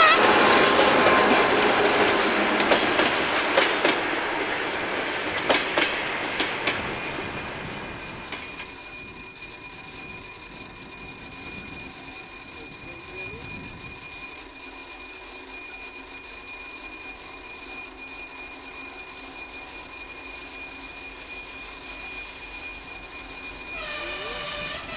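Passenger coaches rolling past on jointed track, wheel noise with a few rail-joint clicks, fading away over the first eight seconds as the train recedes. Then a much quieter stretch, with a short pitched call near the end.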